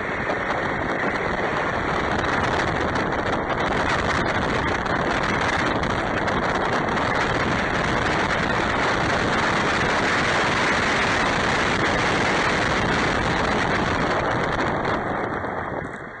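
Truck driving between stops: a steady rush of road and engine noise that swells at the start as it pulls away and dies down near the end as it slows.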